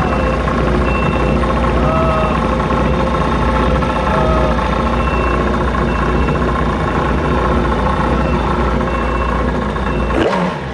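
Yamaha 1100 jet ski engine running steadily, then shut off near the end, its pitch falling away as it stops. A short high beep repeats about once a second while it runs.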